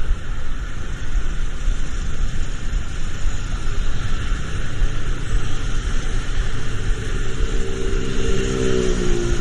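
Steady hiss of rain and road traffic with a low rumble. In the second half a passing vehicle's engine note grows and drops in pitch near the end as it goes by.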